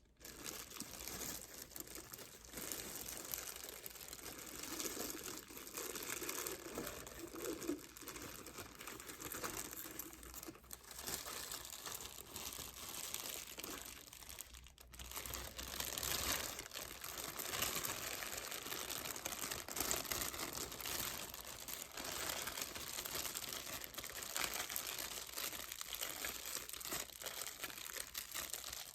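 Close-up crinkling and rustling of packaging being handled by hand while a milk frother is unboxed, continuous apart from a brief lull about fifteen seconds in.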